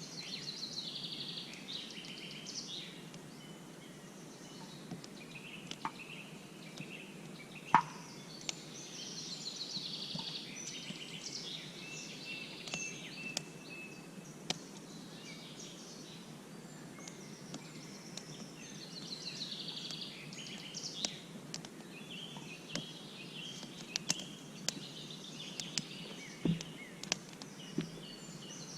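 Songbirds singing and chirping, with a few sharp snaps or clicks: one loud one about eight seconds in and several more near the end.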